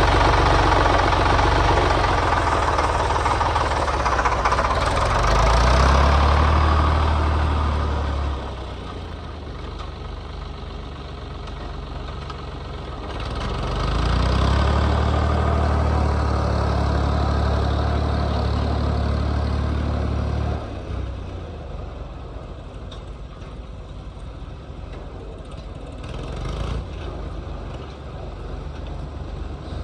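Diesel engine running under load, revving up and dropping back twice: it eases off about eight seconds in, revs up again a few seconds later and holds for about seven seconds, then falls back to idle.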